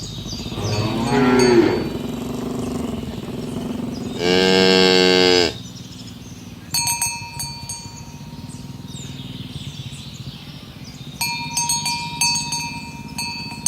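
Cows mooing: a short moo about a second in, then a long, loud moo about four seconds in, the loudest sound here. Later a bell clanks in quick, uneven strokes, in two clusters.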